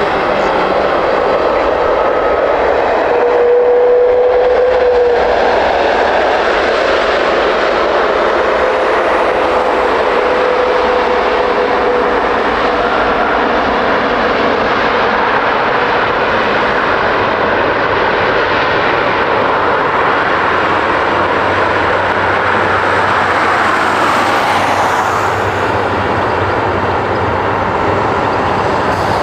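Jet airliner engines at close range: a steady, loud rush of engine noise with a faint whine that slides slowly down in pitch.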